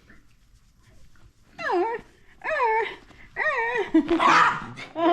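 Pet dog vocalizing in excitement: three drawn-out whining calls that dip and rise in pitch, then a louder, rougher growl-like call near the end.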